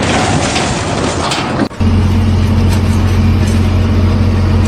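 Noisy rumble that breaks off abruptly, then a heavy engine running at a steady, even drone.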